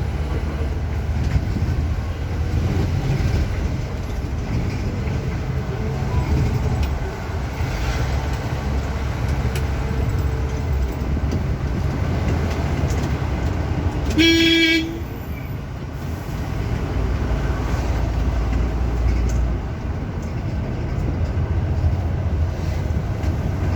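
Bus running at speed: steady engine and road rumble, with one short horn blast a little past the middle.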